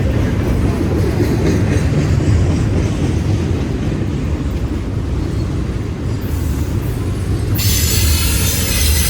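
A passing train's cars rolling by on the rails, a steady low rumble of wheels on track. About three-quarters of the way through, a high hiss and faint wheel squeal join in.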